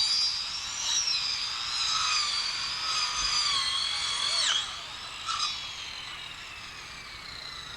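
A power tool's high-pitched whine runs for about four and a half seconds, wavering slightly in pitch, then drops off sharply. After a brief second burst about five seconds in, the whine falls slowly in pitch as the tool winds down.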